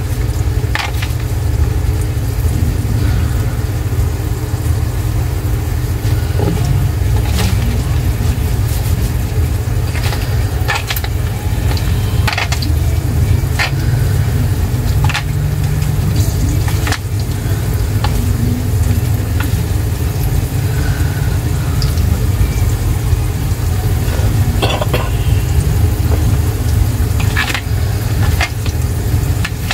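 Breaded green tomato slices frying in hot grease in a pan: a steady sizzle with scattered sharp pops and crackles, over a loud, steady low rumble.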